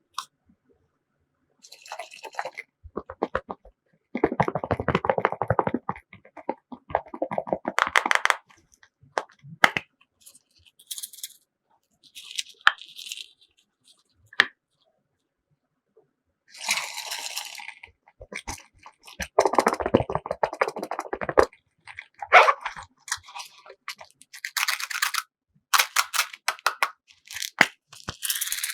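Slime being squished and stretched by hand: bursts of wet crackling and popping with short pauses between them, the densest bursts about four to six seconds in, about seven to eight seconds in, and around twenty seconds in.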